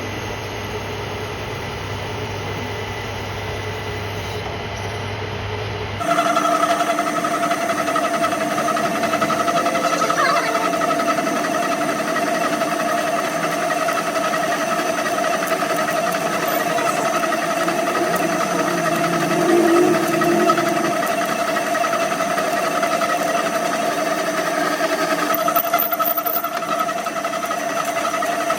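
Metal lathe running with a steady mechanical whine, turning a steel socket. About six seconds in the sound changes suddenly and gets louder.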